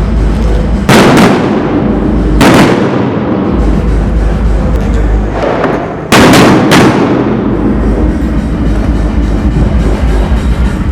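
Loud firework bangs from heavy firecrackers: four sharp reports, each with a short echoing tail, the last two close together, with a fainter bang just before them. Steady background music with a heavy bass runs underneath.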